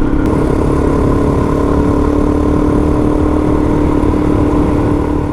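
Suzuki DR-Z400 single-cylinder four-stroke dirt bike engine running at a steady speed, holding one even note.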